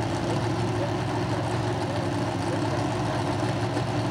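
Drag racing car engine idling steadily at the starting line.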